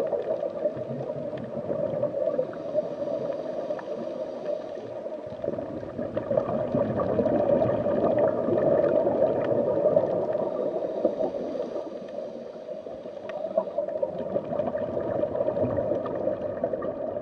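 Underwater ambience of gurgling, bubbling water: a steady watery rush with scattered tiny pops. Faint high-pitched tones come in twice.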